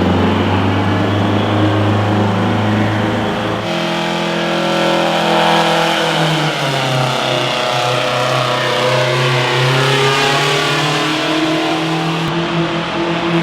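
A pulling vehicle's engine running hard: a steady low drone that changes abruptly about four seconds in to a higher engine note, whose pitch dips and then climbs again.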